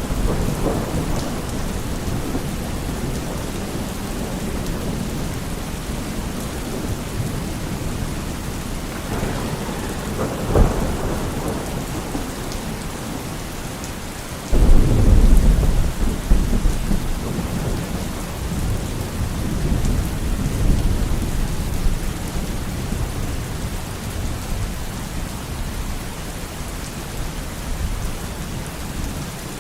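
Steady heavy rainfall with thunder: a sharp crack about a third of the way in, then a loud, deep roll of thunder that breaks out suddenly about halfway through and rumbles on for several seconds.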